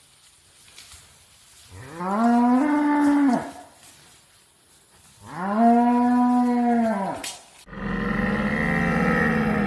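A cow mooing twice: two long calls of about two seconds each, each rising then falling in pitch. Near the end a different animal call cuts in abruptly.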